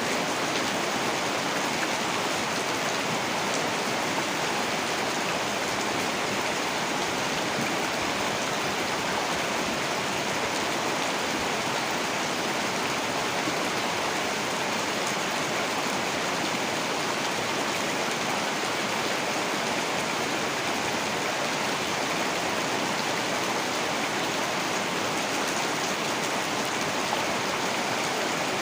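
Heavy rain falling steadily, an even hiss with no thunder or breaks.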